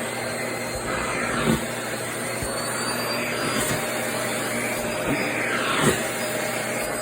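Vacuum cleaner running steadily, with a brief swish about three times as the skirt fabric is drawn against the suction.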